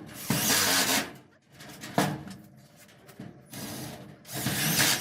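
Power tool working the aluminum angle iron against the metal garage door in two bursts of about a second each, with a sharp click about two seconds in.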